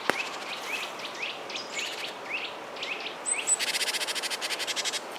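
Small birds chirping: a string of short rising chirps, about two or three a second, then a fast buzzy trill for about a second and a half near the end. A single click comes right at the start.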